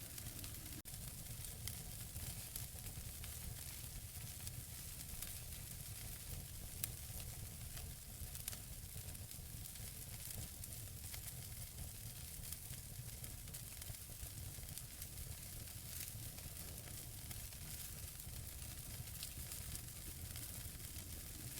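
Wood fire burning in a fireplace: logs crackling with frequent small pops and snaps over a steady soft hiss and low rumble, with a sharper pop about seven seconds in.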